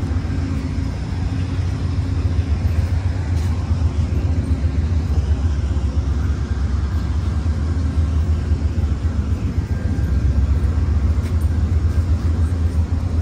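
Steady, loud low rumble of a running vehicle, with a faint steady hum above it.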